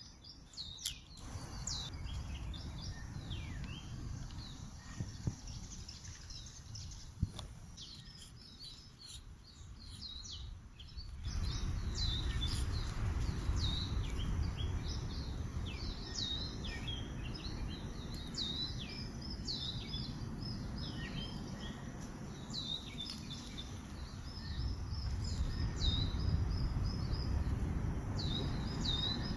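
Small birds chirping and twittering in quick, repeated high notes, over a steady low rumble that gets louder about eleven seconds in.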